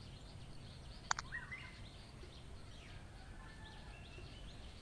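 Faint bird chirps over a low steady background hum, with a sharp double click about a second in.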